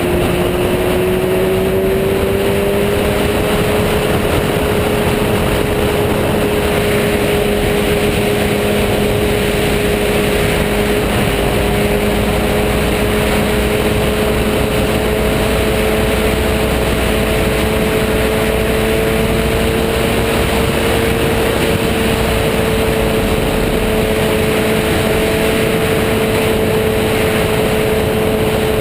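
Sport motorcycle engine holding a steady cruising speed under a constant rush of wind and road noise. Its pitch climbs a little in the first few seconds, then stays nearly level.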